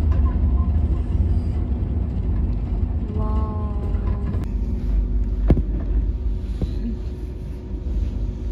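Steady low rumble of a Rajdhani Express coach running along the track, heard from inside the closed coupe, with a constant hum over it. About three seconds in there is a brief pitched tone lasting about a second, and about halfway through there is a single sharp knock.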